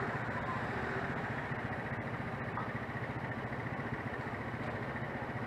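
Steady city traffic noise: motor scooter and car engines running close by, with an even pulsing throb.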